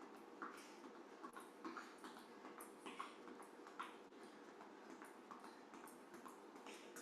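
Faint, quick footsteps of athletic shoes landing lightly on the floor during a side-to-side cardio shuffle, about two to three soft taps a second.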